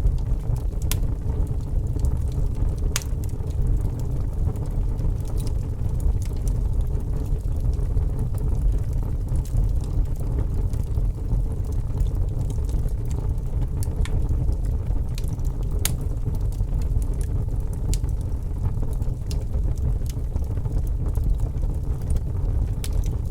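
Wood fire burning: a steady low rumble of the flames with scattered sharp crackles and pops every few seconds.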